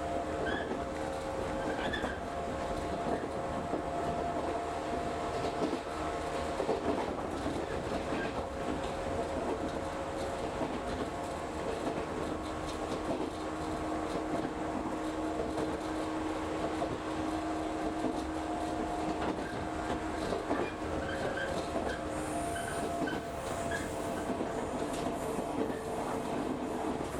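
Running noise heard from inside a moving electric train: a steady rumble with a hum of several steady tones, and wheels clacking over rail joints.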